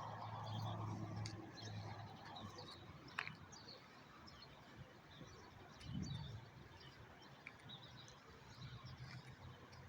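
Small birds chirping faintly in short, scattered calls, over a steady low hum that is strongest in the first two seconds and again near the end, with one brief low thump about six seconds in.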